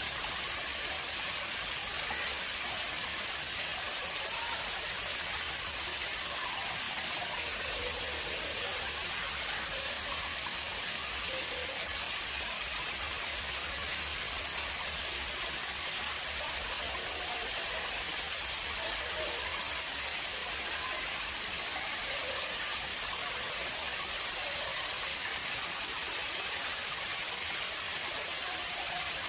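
Water flowing into an artificial pond, an even, continuous rush with no breaks.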